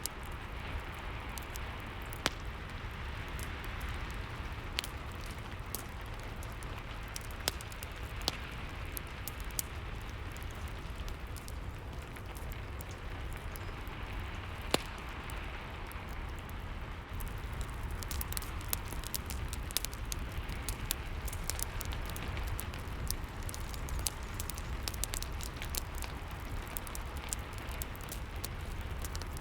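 Steady rain hiss with a crackling fire: a low rumble under the rain and scattered sharp pops, the crackles coming thicker over the second half.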